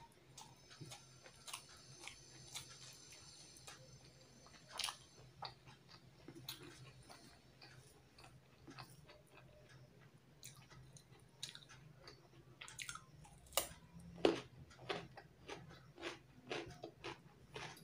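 Close-up chewing and biting while eating rice with fish curry by hand, with small clicks of the fingers working the food on a steel plate. The clicks are loudest near the middle and again a little past two-thirds of the way through. A steady low hum runs underneath.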